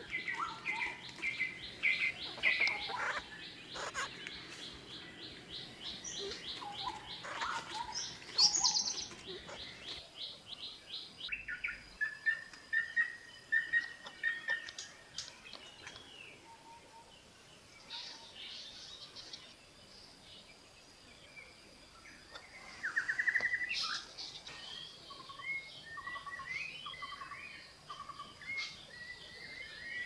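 Kalij pheasants giving soft squeaks and clucks among other forest birds chirping and whistling. A fast, even trill runs through the first third and then stops, and a louder burst of calls comes a little after the middle.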